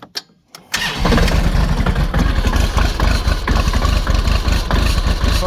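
Kubota L2502 tractor's diesel engine cold-starting at 0 °F: a few short clicks, then it catches within a second and settles into a steady, pulsing idle.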